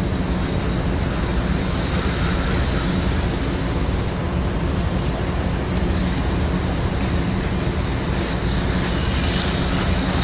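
HO-scale slot cars and model train running on the layout: a steady hum of small electric motors with a rushing noise of wheels on the track.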